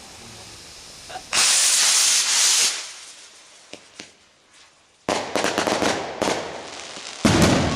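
A homemade black-powder rocket launching with a loud hissing whoosh lasting just over a second, followed by a couple of small pops. About five seconds in comes a rapid crackle of sharp reports, and near the end a heavier bang.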